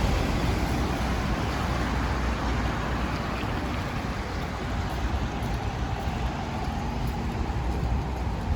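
Steady low rumble and hiss of wind buffeting the microphone over outdoor city street noise.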